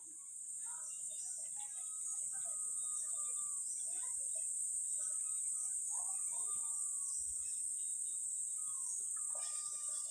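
Steady high-pitched drone of insects, with scattered short bird chirps throughout.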